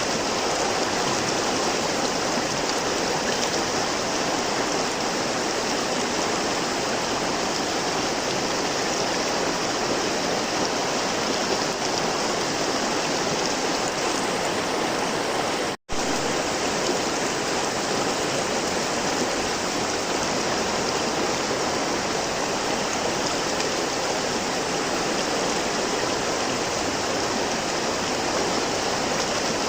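River water flowing and rushing steadily. The sound drops out for an instant about halfway through.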